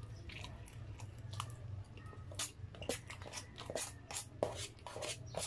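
A person chewing food close to the microphone, with a run of short crackling clicks that thicken in the second half, over a steady low hum.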